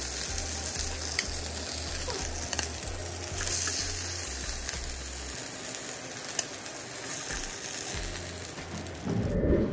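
Marinated chicken drumsticks sizzling and frying in hot oil in a nonstick pan, with scattered clicks of metal tongs as the pieces are turned. A brief louder rush comes near the end.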